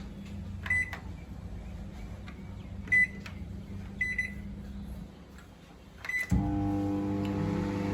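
IFB 30BC5 convection microwave oven's keypad beeping four times as settings are entered. About six seconds in, the oven starts running with a steady electrical hum.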